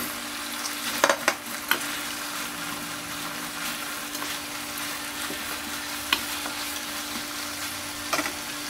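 Chicken and chopped vegetables sizzling in hot coconut oil in a deep pot, stirred and turned with a spatula. A few sharp clicks of the utensil against the pot: three close together about a second in, one around six seconds and a pair near the end.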